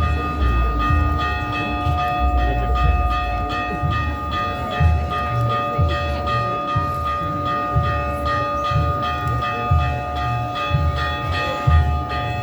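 Church bell ringing, struck rapidly several times a second so that its tones ring on continuously, with uneven low rumbling thumps underneath.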